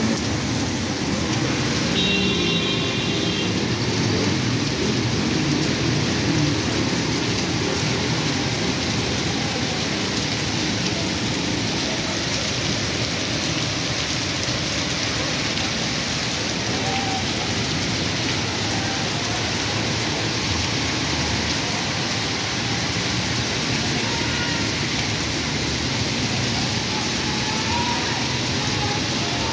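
Heavy rain pouring steadily onto a flooded street, a constant hiss of falling water. A short high-pitched tone sounds about two seconds in.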